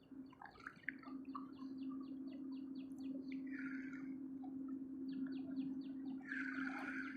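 A bird calling in a fast repeated series of short high notes, about four a second, pausing midway, with a denser high chirring near the end, over a steady low hum.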